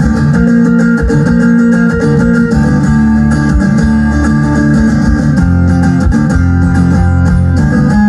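Guitars playing a sustained instrumental passage of a rock song without vocals, the chord changing near the end.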